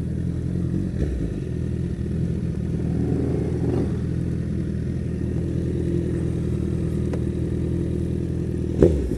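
2012 Honda CBR1000RR Fireblade's inline-four engine running steadily at low revs as the bike rolls slowly and pulls up. A single sharp knock sounds near the end.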